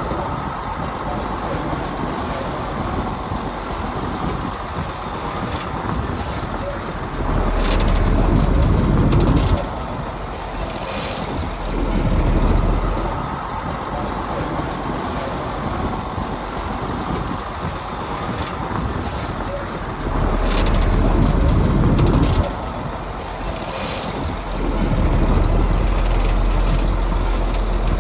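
Heavy diesel earthmoving machinery running, its engine revving up louder four times for a couple of seconds each.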